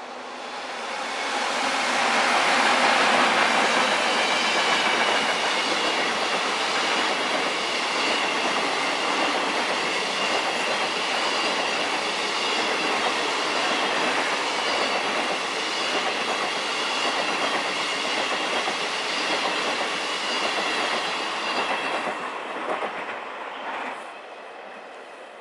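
Passenger train passing at speed, hauled by two E402 electric locomotives: a steady rush of wheels on rail with clickety-clack and a thin high steady whine over it. It builds over the first two seconds as the locomotives arrive and falls away sharply near the end as the last coach goes by.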